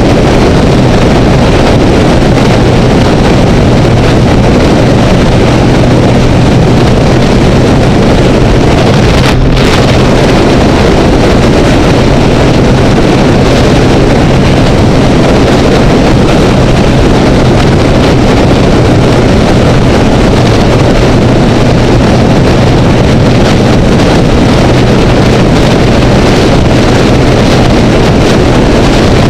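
Honda Rebel motorcycle at steady freeway cruise: loud wind rush buffeting the housed camera, with the engine's steady drone underneath.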